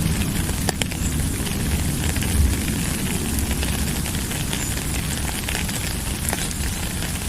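Steady rain, a dense patter of drops, with a low rumble underneath.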